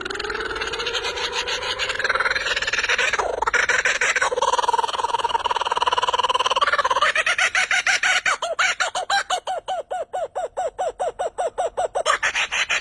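A songbird singing a long, unbroken song of fast rolls and trills. In the second half it changes to a run of evenly repeated notes, about four a second.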